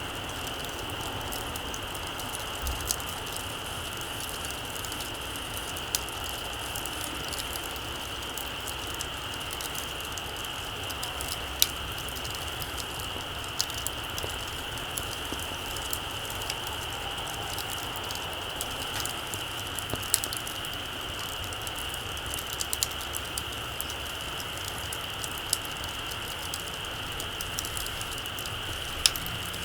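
Small wood campfire crackling, with sparse sharp pops scattered throughout over a steady high-pitched drone.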